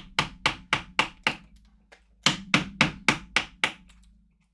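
A mallet striking a carving chisel or gouge into wood, in two quick runs of strikes about four a second, with a pause of about a second between them.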